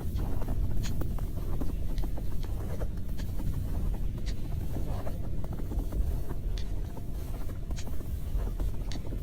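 Steady low rumble with scattered faint clicks and ticks at irregular intervals.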